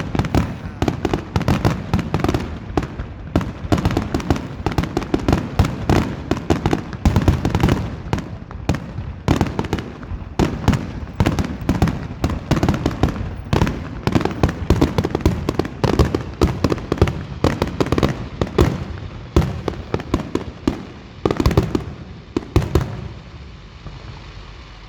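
Fireworks grand finale: a rapid, unbroken barrage of aerial shell bursts and crackling, thinning out and fading away in the last few seconds.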